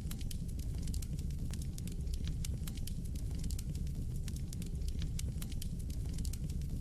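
Fireplace fire burning, with many quick irregular crackles and pops over a steady low rumble of flame.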